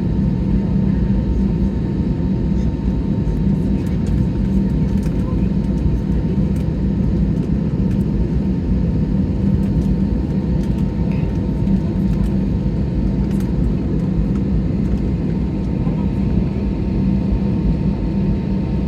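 Steady low drone of an airliner's cabin with the jet engines idling during the taxi and runway wait, with a faint steady whine above it.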